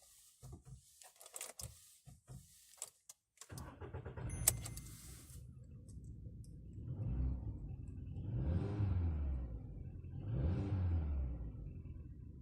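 Clicks and rattles like keys being handled, then a Volkswagen Polo sedan's engine starts about three and a half seconds in and runs, revved up and back down twice near the end.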